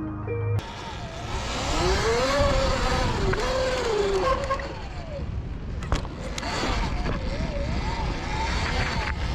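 Sur-Ron electric dirt bike's motor whining, its pitch rising and falling with the throttle, over a steady rush of wind and riding noise; a sharp click about six seconds in.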